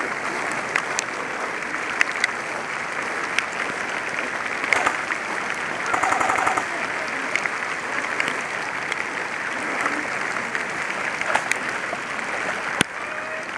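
Steady patter of rain with scattered sharp clicks from airsoft shots. About six seconds in, an electric airsoft rifle fires a short rapid full-auto burst.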